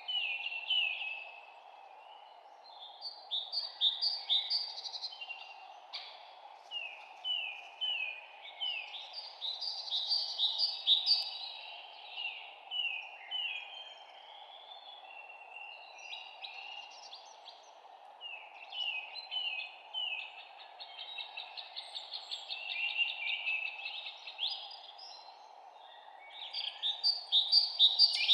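Birds singing in bouts of quick, repeated chirps and trills a few seconds long, with short pauses between them, over a steady background hiss.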